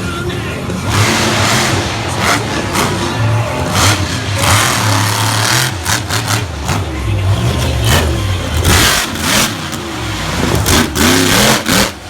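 Monster truck engine revving hard in repeated bursts, the throttle opening and closing again and again over a steady loud rumble.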